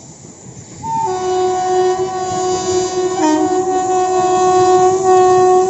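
Locomotive horn of a Jan Shatabdi Superfast Express sounding one long, loud, steady blast as the train runs through the station at speed, with a brief waver about two seconds after it starts. The rumble of the train runs beneath it.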